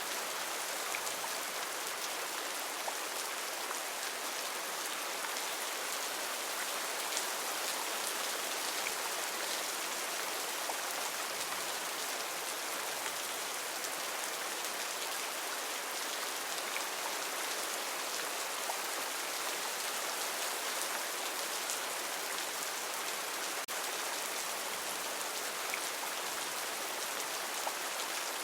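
Heavy rain falling steadily in a rainforest, an even hiss with faint scattered drop ticks.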